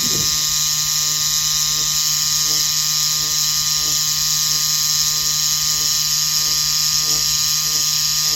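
Semi-permanent makeup tattoo machine running with a steady electric buzz, while its needle is pressed in and out of a practice pad to place scalp-micropigmentation dots, giving faint regular ticks about twice a second.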